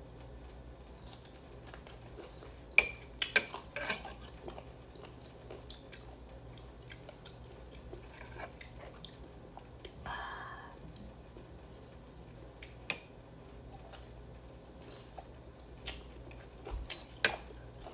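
Close-up biting and chewing of crisp raw green mango slices, with a cluster of sharp crunches about three seconds in and more crunches near the end.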